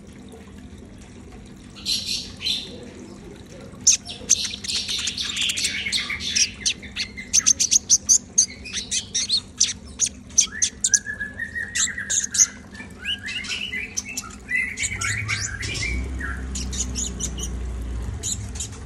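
A caged sunbird, the bird keepers' 'konin', singing vigorously: rapid runs of short, sharp, high chirps with quick trilled phrases in between.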